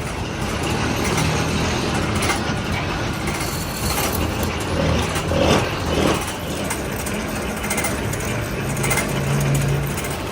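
Machine-shop noise: machinery running steadily with a low drone, with scattered metallic knocks, the loudest a little past the middle.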